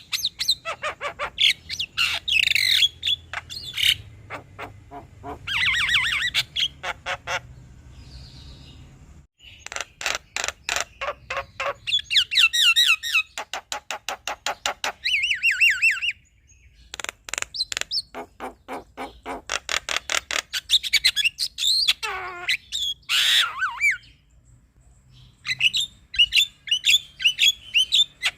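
Male Javan myna singing: a varied, chattering song of rapid strings of sharp clicking notes mixed with harsh squawks and wavering whistled phrases, broken by two short pauses.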